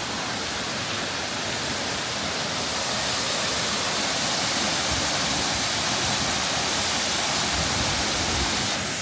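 Steady rush of falling water, growing louder about three seconds in and easing slightly near the end.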